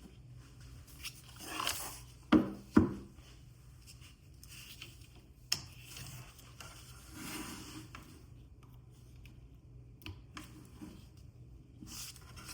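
Hands handling a power bank and its packaging: scraping and rubbing, with two sharp knocks close together about two seconds in and a lighter click a few seconds later.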